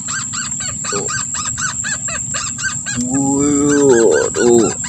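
A fast, even series of short rising-and-falling bird calls, about five a second, from marsh birds in a swamp. About three seconds in, a louder, lower call falls in pitch for a second and a half, over a steady high-pitched tone.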